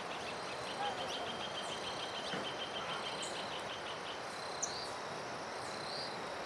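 Forest ambience: a steady hiss under a rapid, pulsing insect trill that stops about two-thirds of the way through, with a few short, high, falling bird calls scattered across it.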